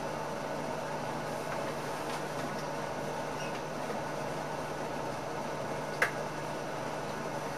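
Steady cab noise inside an NS ICM electric multiple unit: an even rushing hum with a low steady drone beneath it. One sharp click sounds about six seconds in.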